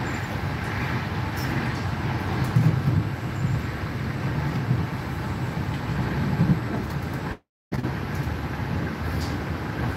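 Steady running noise of a moving passenger train heard from inside the carriage: a low rumble of wheels on the track with a few faint ticks. The sound cuts out completely for a moment about seven and a half seconds in.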